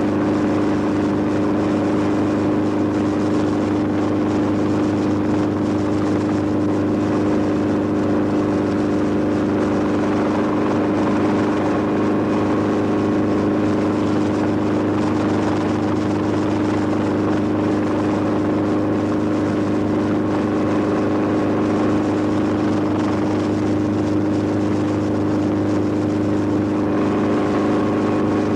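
Steady engine drone, one pitched hum with overtones that holds unchanged throughout.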